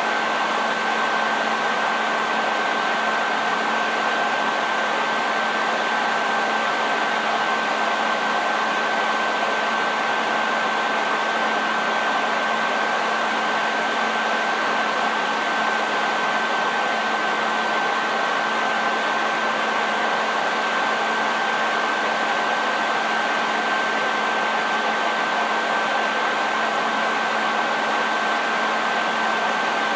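Hair dryer running steadily: an even rush of air with a constant high whine from the motor and fan and a lower hum beneath, unchanging throughout.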